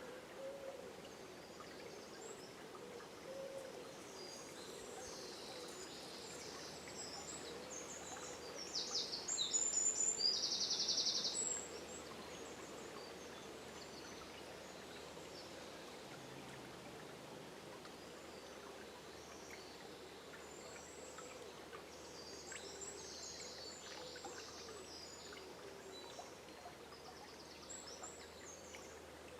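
River water running steadily under a dawn chorus of songbirds calling. One bird sings a loud, fast trill from about eight to eleven seconds in.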